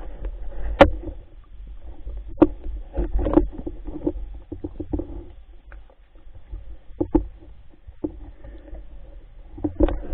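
Irregular knocks and clicks over a low rumble, the sharpest knock less than a second in and a cluster near the end.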